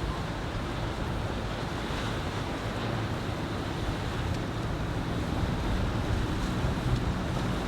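Wind buffeting the microphone over rushing water, with a steady low drone of a boat engine underneath.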